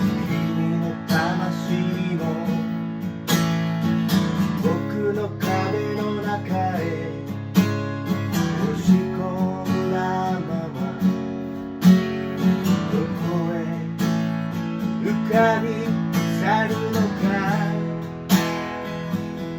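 Acoustic guitar strummed in a steady rhythm, with a higher melody line of wavering, bending notes played over the chords.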